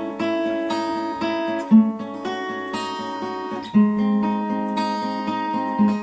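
Acoustic guitar played solo between sung verses: chords ringing on, with a strongly accented bass stroke about every two seconds.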